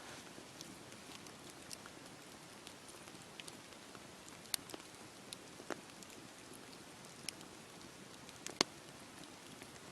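Wood fire burning in a fireplace: a soft steady hiss with scattered sharp crackles and pops, two louder pops about four and a half and eight and a half seconds in.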